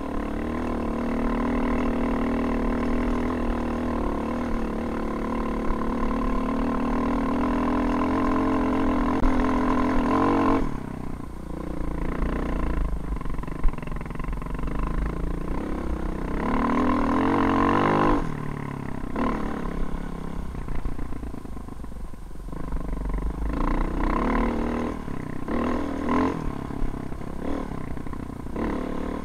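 KTM off-road motorcycle engine pulling under throttle, its pitch climbing steadily for about ten seconds before the throttle is shut off abruptly. The engine then picks up again in a shorter pull and a few quick throttle blips near the end.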